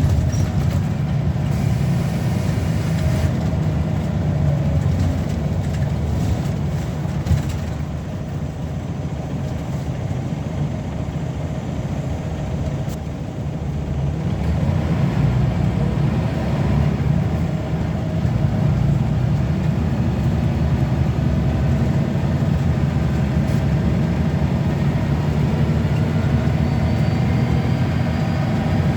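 A Scania L94UB bus's diesel engine drones steadily, heard from on board while under way. It eases off about a third of the way in, then pulls harder again from about halfway.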